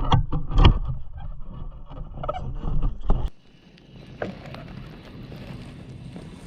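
Low rumble of wind on the microphone and knocks of handling in a small fishing boat, cutting off abruptly a little over three seconds in to a quieter steady hiss.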